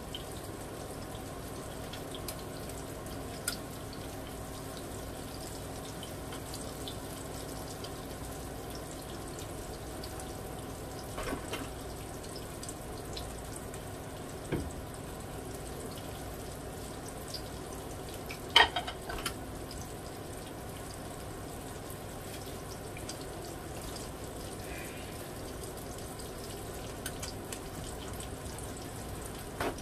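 Breaded tilapia fillets frying in hot olive oil in a skillet: a steady, even sizzle, with a few short pops or clicks now and then, the loudest about two-thirds of the way through.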